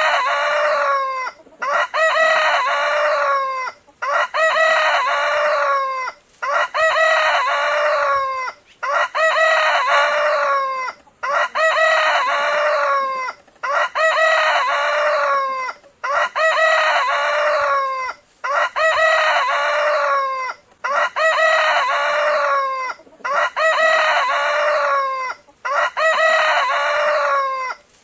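Rooster crowing: the same cock-a-doodle-doo repeated over and over, one crow about every two and a half seconds with a short pause between.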